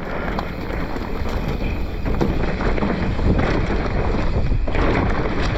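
Mountain bike descending a rough dirt trail: wind rushing over the camera microphone with tyres rolling over dirt and the bike knocking and rattling over bumps. It gets louder about two seconds in as the bike speeds up.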